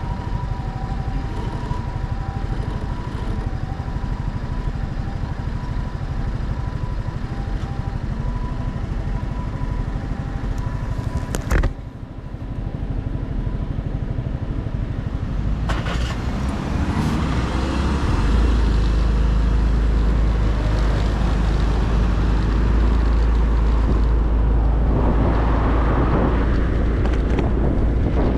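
Motorcycle ride noise in traffic, with engine and road sound. Two steady high tones are heard in the first third, and there is a sharp knock about twelve seconds in. From about two-thirds of the way through, a heavy wind rumble on the microphone takes over.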